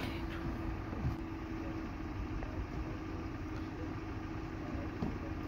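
Car engine idling, a steady hum with a faint click about a second in.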